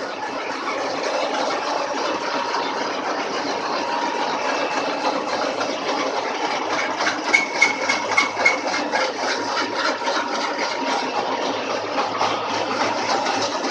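Lathe turning a cast freight-wagon bogie side frame after its worn spots have been built up by weld hardfacing, running steadily with a faint steady tone. About seven seconds in, a run of sharp clicks and a brief high whine come from the cut.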